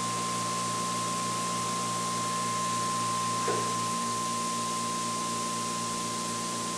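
An electric-motor prime mover turning a generator on a test bench, running steadily with a high, even whine over a low hum. About halfway through there is a short squeak and a small click.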